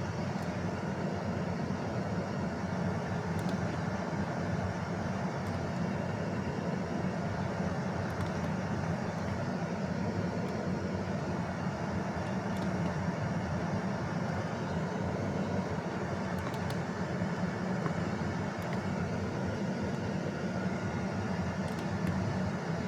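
Truck diesel engine running steadily, a low even rumble with a few faint clicks.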